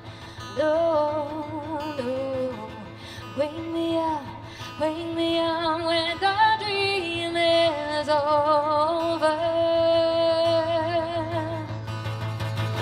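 Female voice singing long held notes with vibrato, without clear words, over a steady low instrumental accompaniment in a live song performance.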